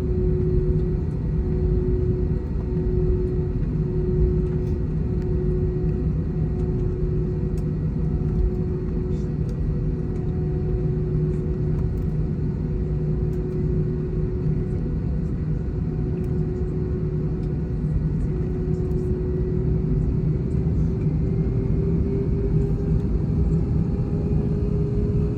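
Airliner cabin noise: a steady low rumble of the jet engines and airframe, with an engine whine that starts to rise in pitch near the end.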